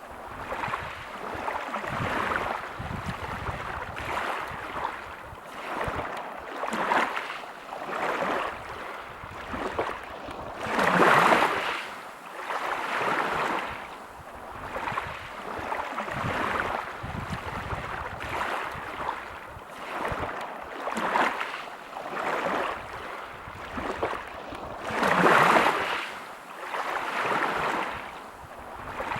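Waves breaking on a pebble beach, the wash swelling and fading every few seconds. Two larger waves break about eleven and twenty-five seconds in.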